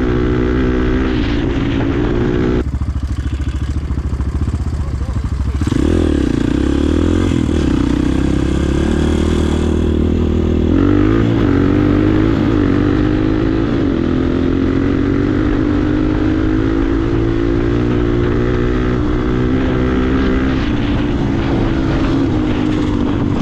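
Air-cooled enduro motorcycle engines running hard under full acceleration, with the engine note shifting in pitch about 3, 6 and 11 seconds in.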